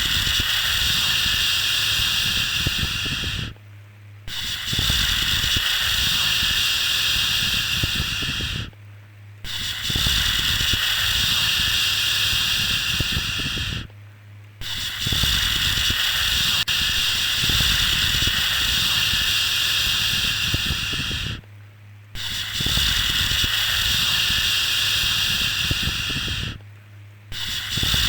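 A soothing 'shhh' shushing sound held for about five to seven seconds at a time, with a short breath-like gap between each shush, repeated steadily.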